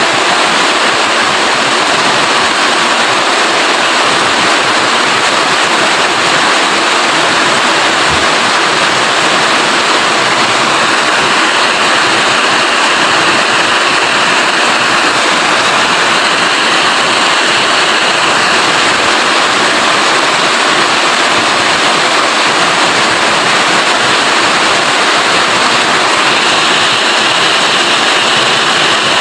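Heavy rain falling in a loud, steady hiss.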